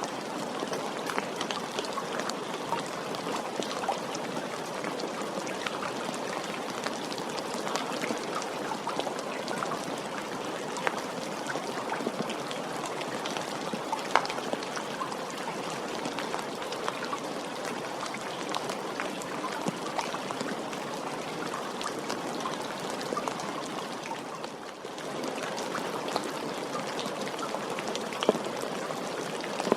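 Steady rainfall, a dense even hiss of rain with many individual drops tapping through it. It softens briefly about 25 seconds in, then returns.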